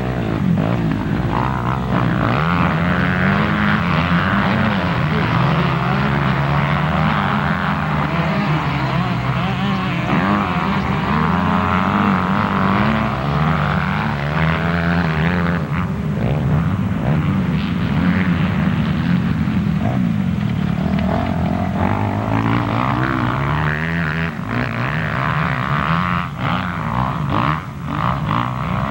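Motocross bike engines running and revving continuously, their pitch rising and falling as the riders open and close the throttle and change gear.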